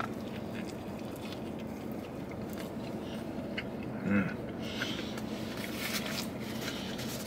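A man chewing a big mouthful of burger inside a closed car cabin: soft wet mouth sounds over a steady low background hum, with a short voiced "mm" about four seconds in.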